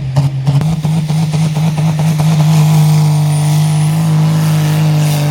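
Modified super sport pulling tractor's engine at full power under load, pulsing briefly at first, then holding a loud, steady high-rev note that rises slightly in pitch.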